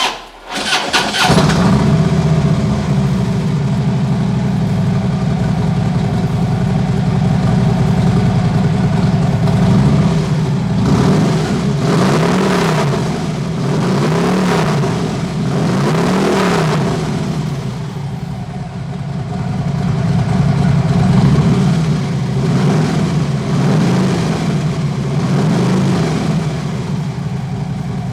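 2015 Harley-Davidson Electra Glide's V-twin engine cranked on the starter and catching within about a second, then idling steadily. It is blipped with the throttle a few times partway through, the pitch rising and falling each time.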